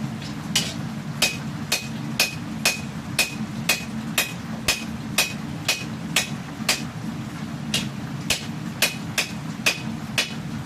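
Hand hammer striking a hot steel katana blade on an anvil in steady forging blows, about two a second, each with a short metallic ring. A steady low hum runs underneath.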